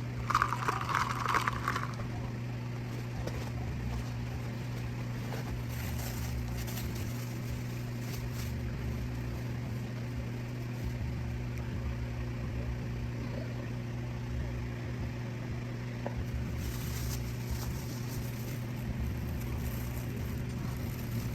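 A motor running with a steady low hum, with a brief louder clatter in the first two seconds.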